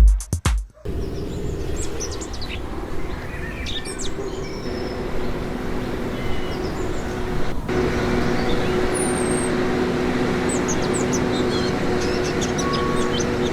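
Electronic music cuts off about a second in. Birds then chirp in short high calls over a steady mechanical hum carrying a few steady tones.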